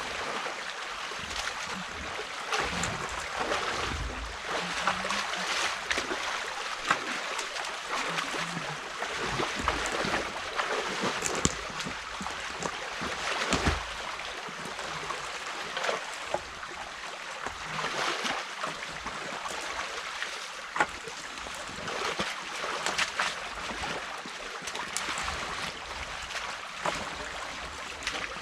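Stream water rushing and splashing steadily through a gap opened in a beaver dam, with a few short sharp knocks and splashes from the work at the dam.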